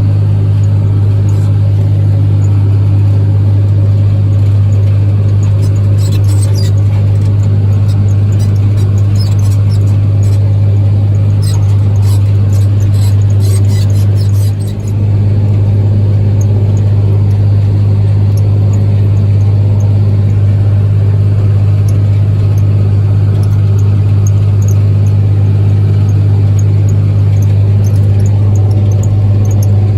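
New Holland tractor's diesel engine running steadily under load, pulling a tillage implement, with a deep, even hum. High squeaks and clicks come and go through the first half.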